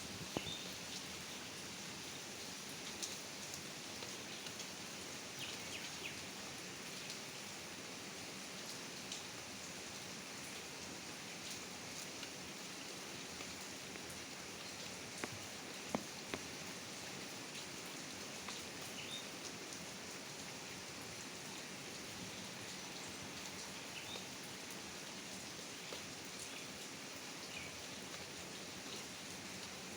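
Steady tropical rain falling, with a few sharper individual drops striking close by, the loudest about halfway through.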